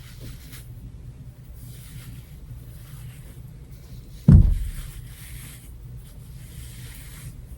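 Hair being brushed and gathered into a ponytail, giving soft rustling in short bursts over a low steady hum. A single loud thump comes about four seconds in.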